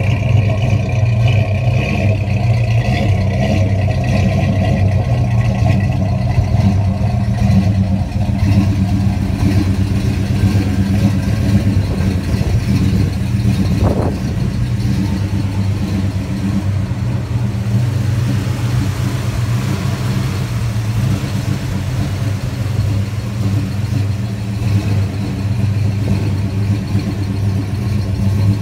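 1970 Pontiac GTO Judge's V8 idling steadily.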